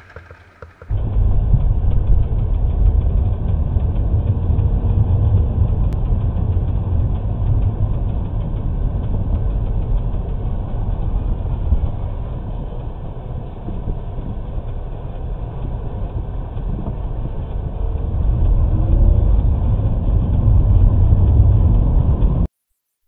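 Steady low rumble of a car's engine and road noise, with no sharp impacts. It starts about a second in and cuts off abruptly near the end.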